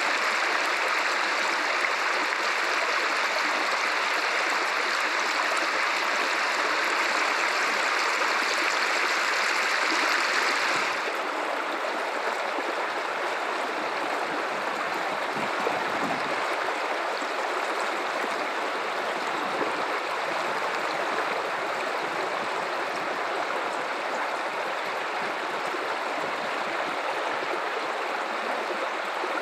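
Guadalupe River water running steadily over rocks, a continuous rushing flow. About eleven seconds in the sound changes abruptly to a slightly quieter, softer rush.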